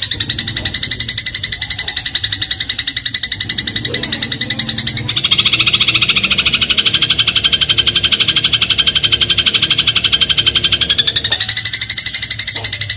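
Eurasian tree sparrow giving a long, very fast rattling trill, the 'crot' chatter used as tutor song for shrikes. It shifts to a lower pitch about five seconds in and goes back up near the end.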